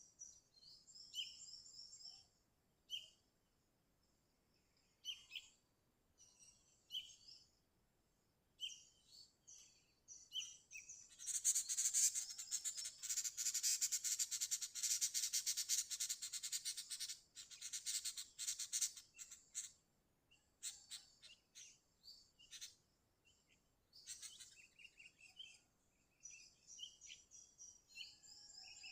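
Sooty-headed bulbul calling: short bright chirps and phrases at intervals, breaking in the middle into several seconds of loud, dense, rapid chattering before the separate chirps resume.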